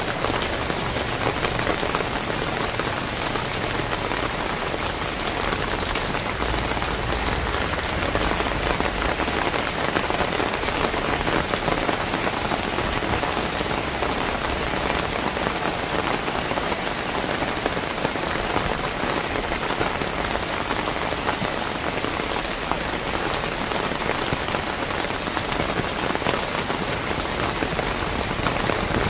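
Steady rain falling on a wet paved street, an even, unbroken patter.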